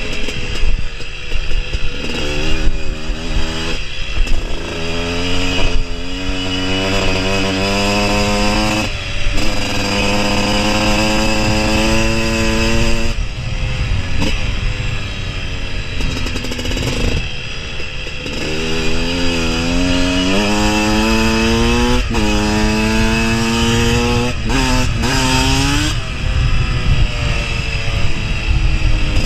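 KTM dirt bike engine under hard throttle: the revs climb again and again, each time dropping back as the rider shifts or backs off, with a steady low rumble underneath.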